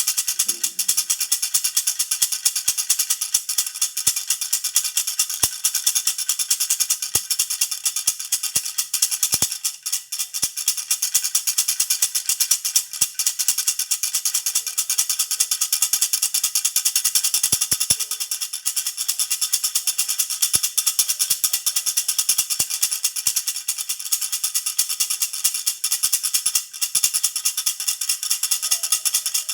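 Jhunjhuna baby rattle shaken continuously, giving a fast, dense jingling rattle. The rattle eases briefly about ten seconds in, then carries on.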